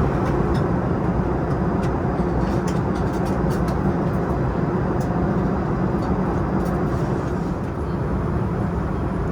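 Steady low rumble and rush of an Airbus A380's cabin in flight, with a few faint light clicks.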